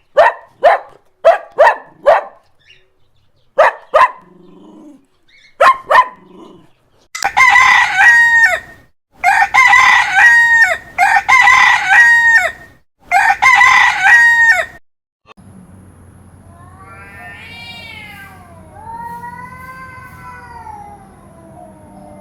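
Short sharp barks in quick runs, then a rooster crowing four times, each crow about a second and a half long. In the last several seconds come quieter drawn-out calls that glide up and down in pitch.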